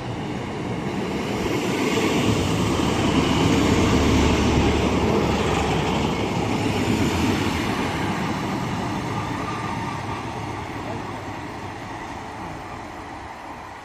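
A Class 150 Sprinter diesel multiple unit running past. The rumble builds to a peak about four seconds in, then fades slowly as the train draws away.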